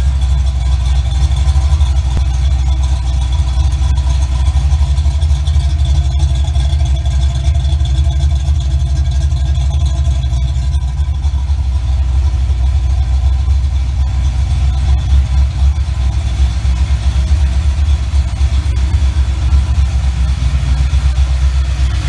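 A 1988 Mustang GT's 302 cu in (5.0 L) small-block Ford V8 idling steadily with a deep, even note and no revving.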